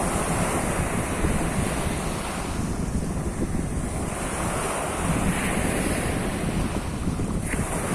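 Sea of Azov surf: waves washing steadily onto the shore, with wind buffeting the microphone.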